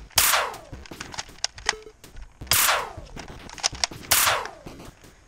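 Three shots in a toy blaster battle, each a sharp crack that drops quickly in pitch like a falling whistle, spaced about a second and a half apart, with small clicks between them.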